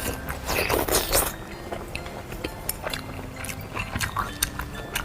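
Close-miked chewing and biting of sweet shrimp: a run of wet clicks and smacks from the mouth.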